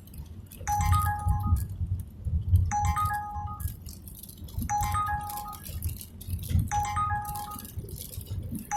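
Uber Eats driver app's incoming-offer alert chiming over and over, a short run of clear notes repeating about every two seconds while a delivery offer waits to be accepted or declined, over the low rumble of the car.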